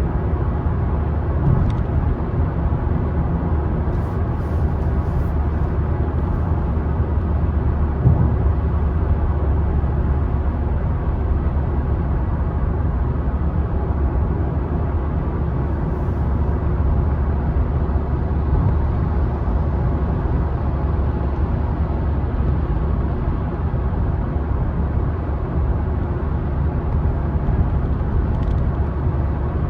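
Car driving along a road, a steady low rumble of engine and tyre noise, with a brief bump about eight seconds in and a few faint ticks.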